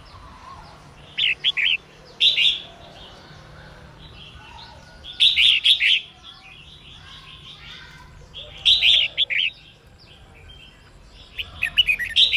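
Female red-whiskered bulbul singing short, bright chirping phrases of a few quick notes, five phrases spaced a few seconds apart. This is the female's song that goads male bulbuls into singing.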